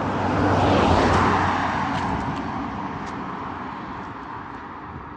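A car passing by, loudest about a second in, then fading away.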